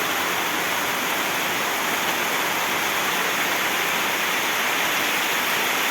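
Heavy tropical rain pouring down, a steady even hiss.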